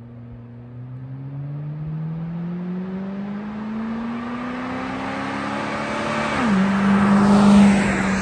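1977 Chrysler Town & Country wagon's 440 V8 pulling toward and past the microphone under acceleration: the engine note climbs steadily in pitch and grows louder. About six and a half seconds in the pitch drops sharply, and it is loudest just after, as the car goes by.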